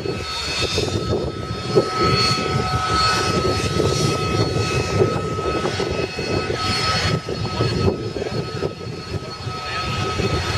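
Airplane engine running, a continuous drone with a steady high tone through it.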